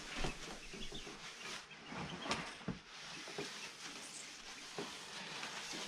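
Young chickens peeping faintly, with a few scattered knocks and clicks of handling.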